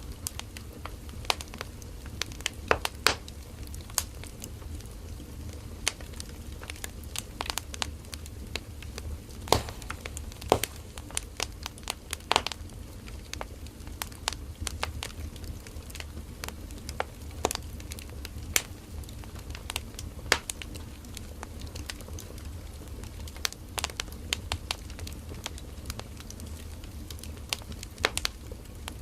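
Firewood burning in an open fire, crackling with irregular sharp pops over a low, steady rumble of the flames.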